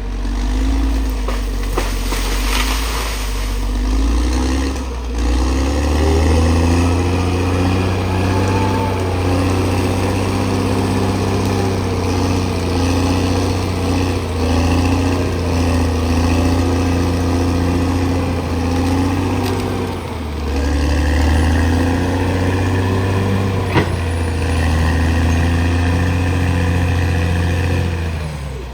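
Diesel engine of a CAT D6R XL bulldozer running hard under load. It eases off briefly about five seconds in and again about twenty seconds in, then pulls back up each time.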